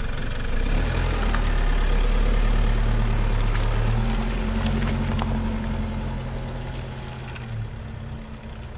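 Off-road vehicle engine running steadily, its sound slowly fading over the second half.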